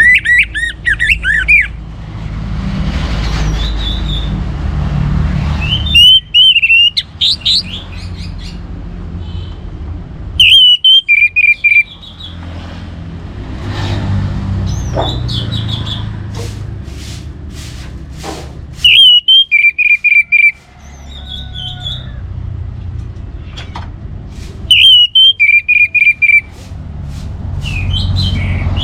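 Orange-headed thrush (anis merah) singing loud, short whistled phrases about every five or six seconds, over a steady low rumble.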